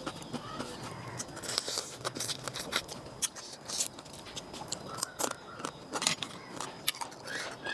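Close-up eating sounds: irregular crisp crunches and mouth clicks as food is chewed.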